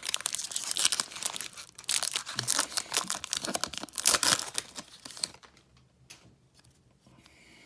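Foil trading-card pack wrapper being torn open and crinkled, a dense crackling for about five seconds before it falls quiet.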